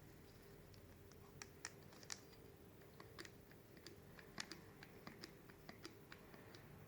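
Faint, irregular small clicks and taps of hand tools and metal parts being handled during work on a handbrake cable end, over a faint steady hum.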